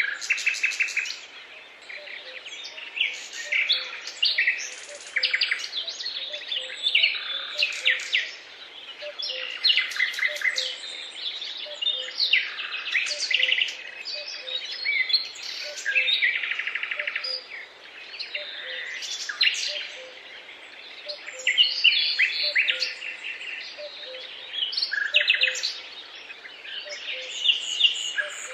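Several songbirds singing at once, a dense chorus of overlapping chirps and trills that keeps going without a break.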